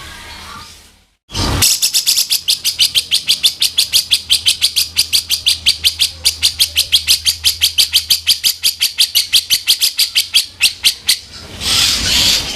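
Grey-cheeked bulbul (cucak jenggot) harsh 'kasaran' call: a fast, even rattle of sharp, high chattering notes, about ten a second, running for about ten seconds after a brief gap. Near the end it changes to a scratchier, noisier call.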